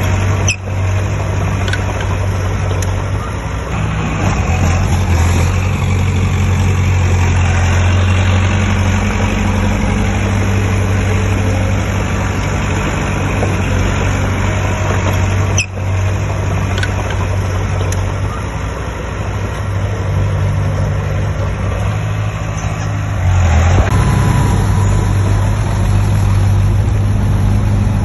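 Heavy diesel engine of earthmoving machinery running steadily with a deep hum. It dips briefly twice, about half a second in and near the middle, and grows louder after about three-quarters of the way through.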